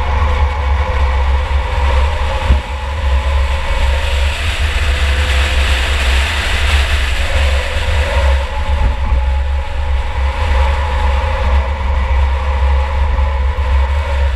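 Onboard sound of a 2004 Chevy Impala's V6 engine running hard, its revs rising and falling, over a heavy low rumble. There is a single sharp knock about two and a half seconds in.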